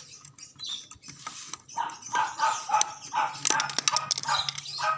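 A dog barking repeatedly, about three short barks a second, starting about two seconds in.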